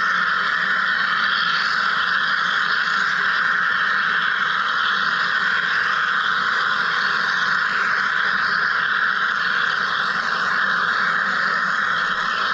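Wire EDM machine cutting, giving an unbroken, even hiss.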